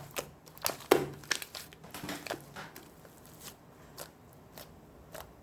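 Hands pressing and squishing slime, giving a run of sharp pops and crackles that comes thick at first and thins out after about two seconds.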